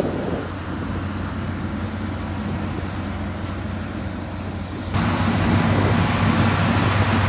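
Diesel engine of heavy road-construction machinery running steadily with a low drone. About five seconds in, the sound jumps abruptly louder and fuller and stays there.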